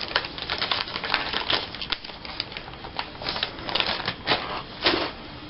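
Paper tags and small craft embellishments handled on a tabletop: rapid, irregular clicks and rustles, with a louder tap near the end.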